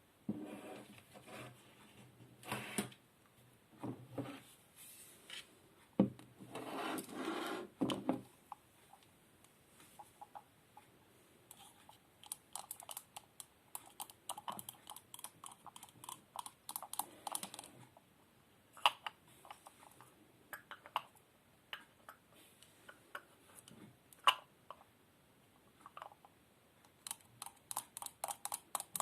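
Close-miked ASMR trigger sounds: quick taps and clicks on small objects, coming in fast runs, with two longer, denser stretches in the first eight seconds.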